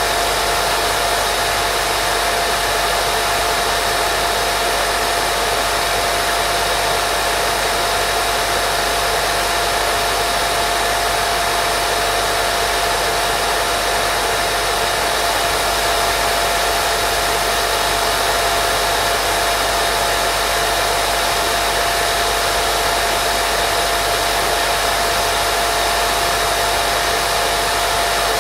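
Continuous white noise for baby sleep: an even, unchanging hiss with a steady mid-pitched tone running through it.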